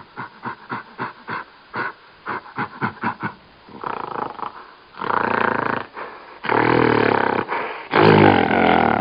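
A large wild animal gives a run of short grunting calls, about three a second, then moves into longer, louder roars from about four seconds in. The last roar near the end is the loudest.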